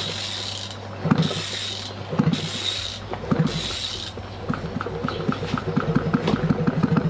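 Hand tools working on a motorcycle engine's cylinder block during assembly: repeated short hissing strokes, then a rhythmic run of metallic clicks and light knocks, about four to five a second, over a steady low hum.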